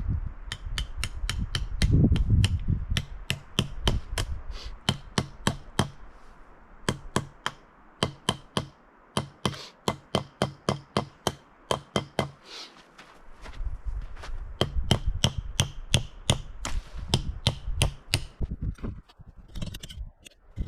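A hammer driving tent stakes into the ground: quick, steady blows, about three a second, each with a sharp ring. The blows pause briefly twice and stop near the end, with wind rumbling on the microphone at times.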